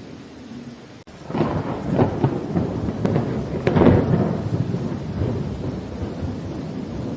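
Thunder rumbling and crackling over steady rain, loudest about two and four seconds in, then settling into a low rumble. A very short gap in the sound comes just before the thunder starts.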